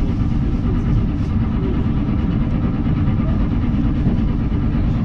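Steady running rumble of an electric commuter train (elektrichka) under way, heard from inside the passenger car.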